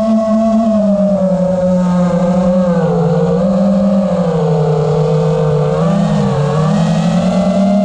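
FPV quadcopter's brushless motors and tri-blade propellers droning steadily as heard by the onboard camera, the pitch wavering gently up and down with small throttle changes.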